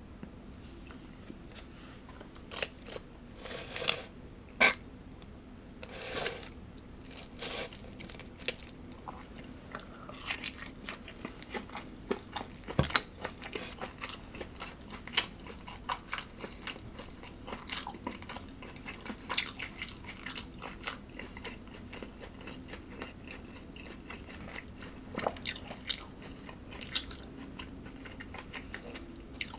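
A person chewing food close to the microphone, with crunchy bites: a few loud sharp crunches in the first half, then steady chewing with soft clicks.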